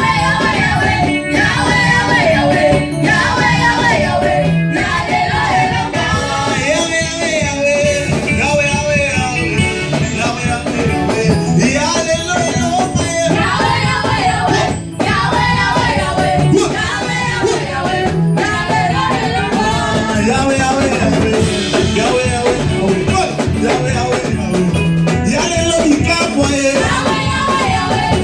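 Live church worship music: a choir singing over a band with a steady beat, bass and guitar.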